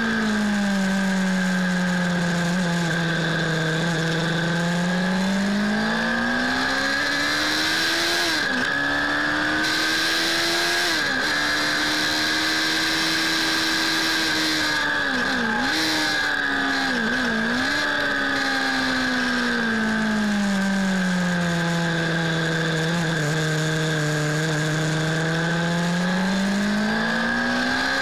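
Suzuki Bandit 600 S's inline-four engine pulling hard on track, its revs rising and falling in long sweeps, with a few quick drops in revs at gear changes around the middle, over steady wind rush.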